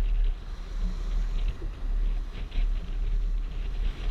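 Strong gusty wind buffeting the microphone, a deep uneven rumble that rises and falls with the gusts.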